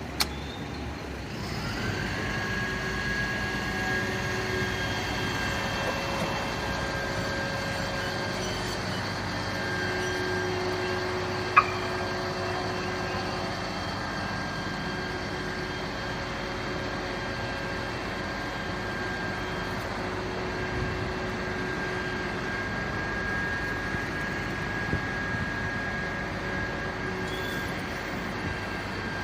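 A fire truck's engine and equipment running steadily, with several held whining tones over the drone. There is a sharp click just after the start and another near the middle.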